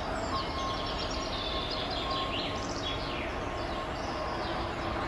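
Birds chirping in short, falling calls over a steady low rumble of outdoor noise.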